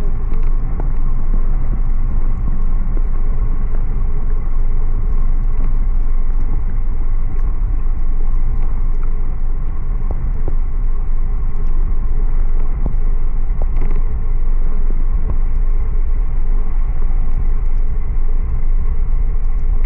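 Steady wind rumble buffeting the microphone while riding, with road noise underneath.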